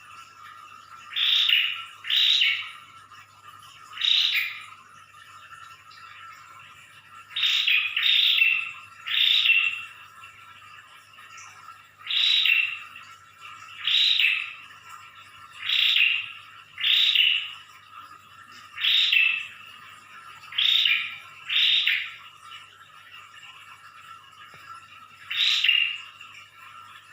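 Prinia (prenjak) giving its loud 'ngedor' call: short calls of about half a second, repeated every one to four seconds, often in pairs.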